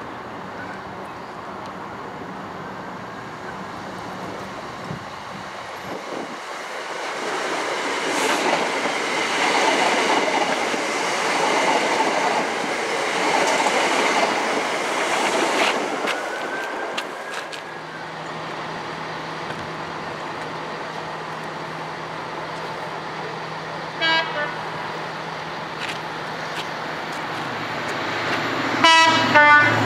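A train passing through a station, its rushing rail noise swelling and then fading, followed by a steady low engine hum. A short horn toot comes about two-thirds of the way through, and a louder horn sounds near the end.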